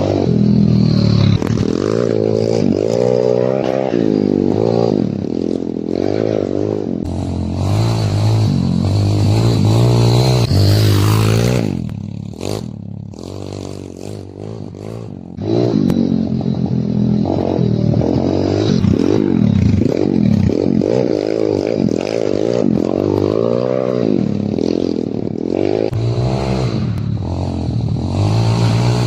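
Kayo pit bike engine revving up and down over and over, with a quieter stretch off the throttle for a few seconds near the middle.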